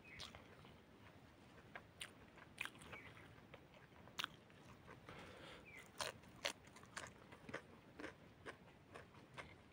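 A person chewing a mouthful of chicken and rice with the mouth closed: soft wet mouth clicks and smacks, about two a second in the second half.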